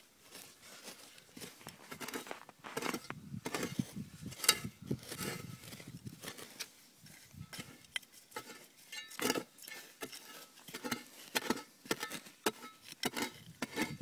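Irregular scraping and light clicking of small objects being picked through and handled in ash and dirt, with one sharper click about four and a half seconds in.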